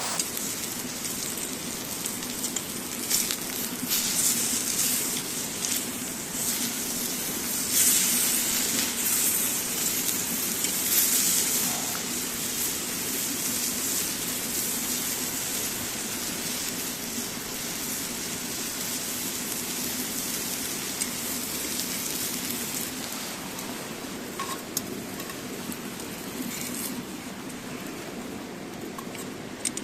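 Campfire crackling, with many sharp little pops over a steady rushing background, louder for a few seconds around the middle.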